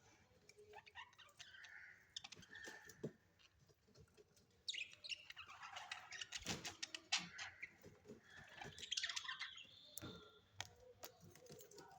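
Birds chirping and chattering in short calls, mixed with scattered clicks and taps. The calls are faint at first and grow busier from about five seconds in.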